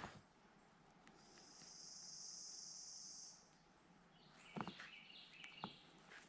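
A faint insect buzz: one steady, high-pitched drone lasting about two seconds. Later come a few faint chirps and a couple of light knocks.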